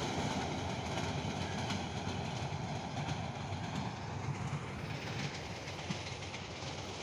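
Train running on the rails: a steady rumble with scattered clickety-clack from the wheels, gradually getting quieter.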